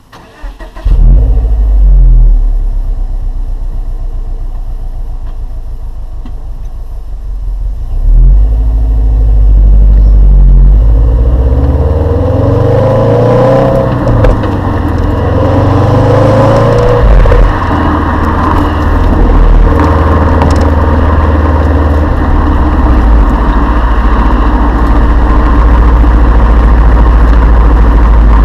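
Exhaust of a turbocharged Subaru Liberty tuned by STI: the boxer engine starts about a second in and idles, then from about eight seconds the revs rise and fall several times before settling into a steady, higher drone.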